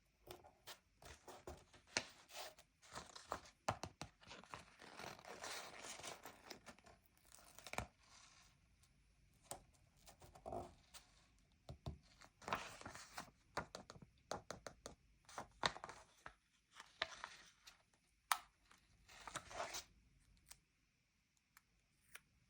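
Paper stickers being peeled from their backing sheet and pressed onto a sticker book page: soft tearing and crinkling of paper in bursts, broken by short taps and brief pauses.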